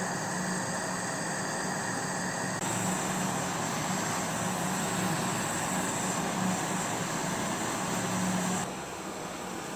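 A workshop power tool running steadily with a motor hum and a hissing abrasive noise. The sound changes abruptly about two and a half seconds in and drops off near the end.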